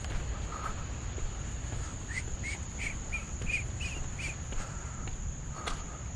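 Insects trilling in one steady high tone, with a bird giving a quick series of about seven short chirps, about three a second, starting about two seconds in; a low rumble runs underneath.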